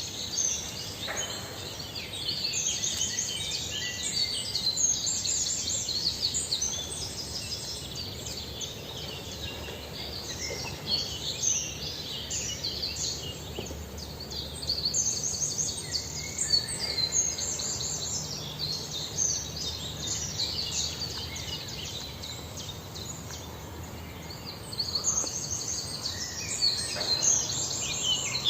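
Small birds chirping and twittering high-pitched in quick, dense bursts that come and go, with quieter stretches in between.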